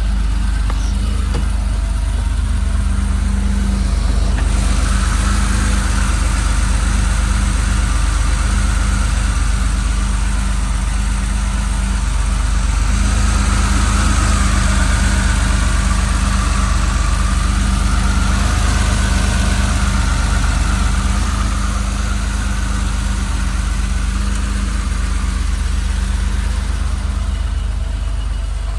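1993 Porsche 911 America Roadster's air-cooled 3.6-litre flat-six idling steadily after a cold start, with a hiss that grows about four seconds in and again near the middle.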